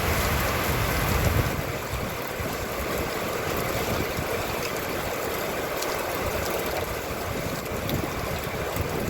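Steady rain with wind buffeting the microphone, heavier for the first second and a half and then easing slightly.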